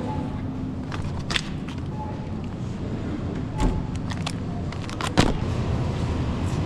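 Truck cab noise while driving: a steady low road and engine rumble, with a few sharp clicks and knocks, the loudest about five seconds in.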